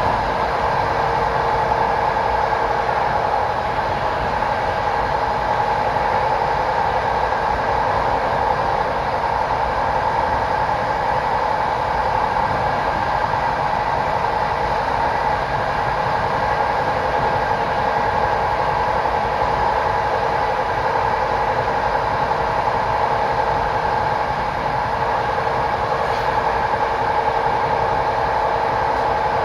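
PKP Intercity train running at a steady speed: an even rumble with a constant whine that neither rises nor falls.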